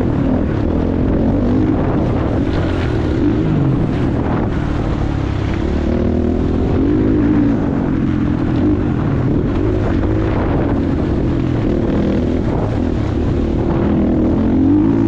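Motocross bike engine revving up and down repeatedly as it is ridden round the track.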